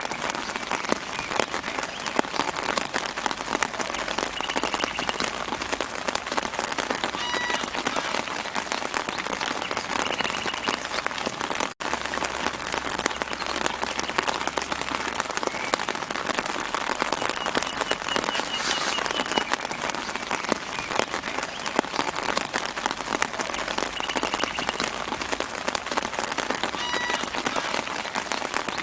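Light rain falling steadily on leaves, a dense patter of fine drops, with a few short bird chirps in the background. The sound cuts out for an instant just before the middle.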